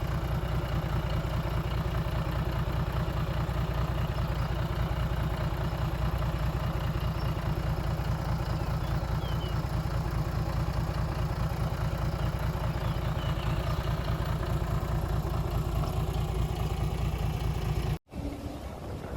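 Heavy diesel engine of construction machinery running steadily at a low, even rumble, then cutting off abruptly near the end.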